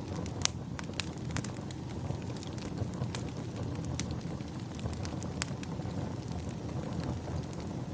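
Wood fire in a fireplace crackling, with sharp pops at irregular intervals, several a second at times, over a steady low rumble.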